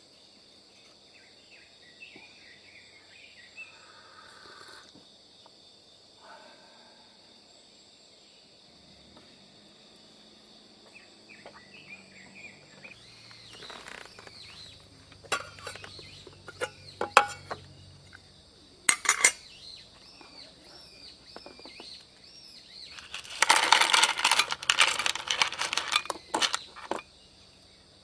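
Metal camp cookware and utensils clinking and clattering in scattered sharp clicks, with a few seconds of dense, louder clatter near the end.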